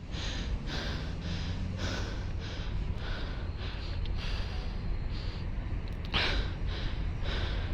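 Diesel locomotive of an approaching freight train: a steady low rumble with a rhythmic breathy hissing about twice a second laid over it.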